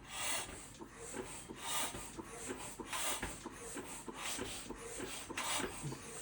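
Rhythmic rasping strokes, about three every two seconds, with a few light knocks between them.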